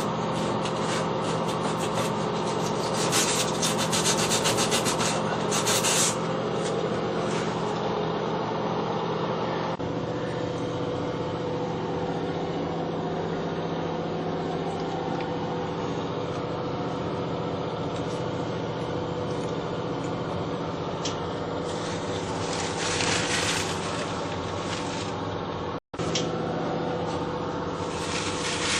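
Rust being scraped and sanded off the metal top of an old Whirlpool washing machine, in bursts of harsh rubbing over a steady low motor hum.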